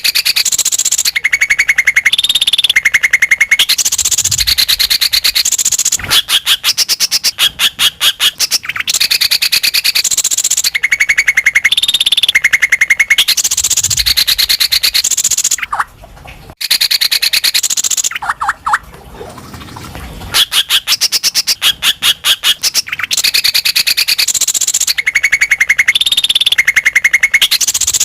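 Cucak ijo (green leafbird) song: loud, fast runs of rapidly repeated high chattering notes in blocks, with a short quieter break a little past the middle. This is lure song, played to make other leafbirds sing.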